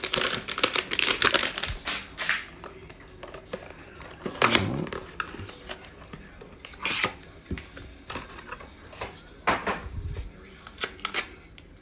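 A trading-card hanger box being opened by hand: cardboard tearing and a plastic wrapper crinkling, with irregular clicks and short swishes as the packaging is handled.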